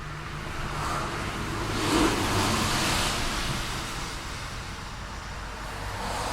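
Street traffic with a steady low engine hum and tyre hiss. A car passes about two seconds in, rising and then fading over the next few seconds, and another approaches near the end.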